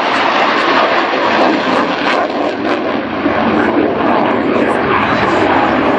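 Jet noise from an F-16AM Fighting Falcon's single turbofan engine as the fighter flies an aerobatic manoeuvre: a loud, steady rushing noise with no clear tone.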